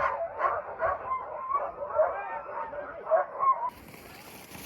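A team of sled dogs barking and yipping in a rapid, overlapping chorus. It cuts off suddenly near the end and gives way to a steady hiss.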